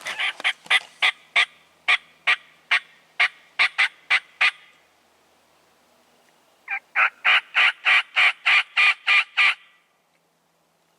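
Turkey call worked by a hunter blind calling for a gobbler: a run of about a dozen sharp, loud yelps. After a pause of about two seconds comes a second, quicker run of about a dozen more.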